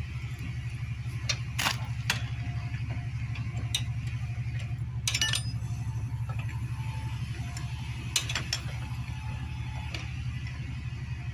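Hand tools working on a motorcycle engine being taken apart: a few scattered metal clicks and clinks with a couple of brief squeaks, over a steady low hum.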